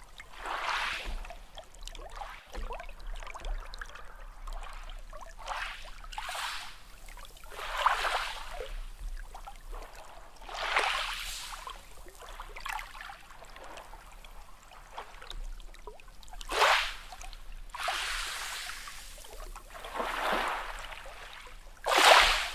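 Small sea waves washing in, one surge of water after another every couple of seconds, the strongest just before the end.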